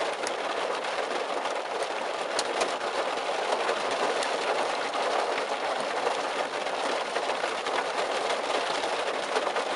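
Pea-size hail and heavy rain pelting a car, a dense steady patter with scattered sharper ticks from individual hailstones.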